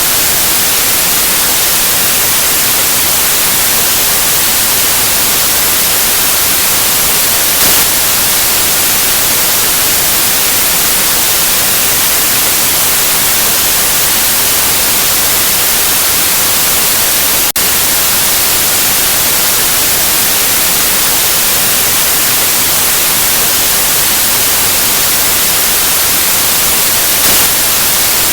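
Steady white noise: an even, loud hiss across the whole range, with one split-second dropout about two-thirds of the way in.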